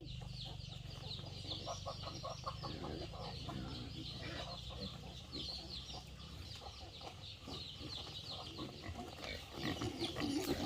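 Chickens clucking, with many short high chirps and peeps all through.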